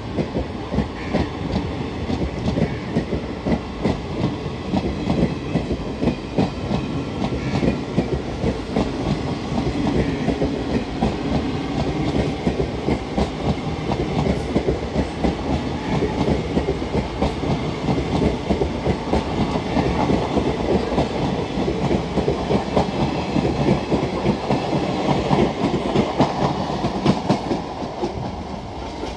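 Indian Railways express train's passenger coaches passing close at speed, wheels clattering rapidly over the rail joints in a continuous clickety-clack. The sound drops away near the end as the last coach goes by.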